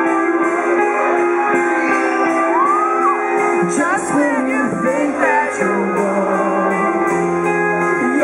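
Live rock band playing: electric guitars ringing on sustained notes, with a bass line coming in about four seconds in.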